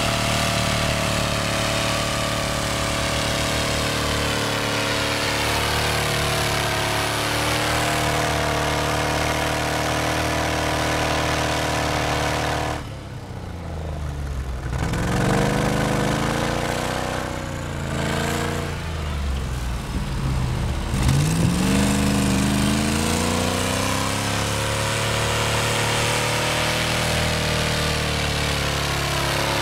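Off-road car's engine running hard at steady revs as it works in deep snow. Near the middle the revs drop away, then are pushed up and down several times before settling back to a steady high note.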